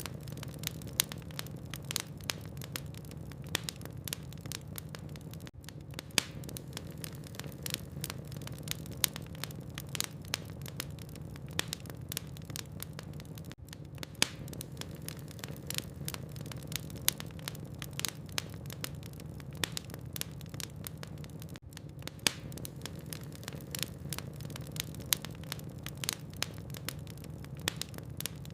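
Logs burning in a fireplace, crackling: dense, irregular sharp pops and snaps, several a second, over a steady low hum.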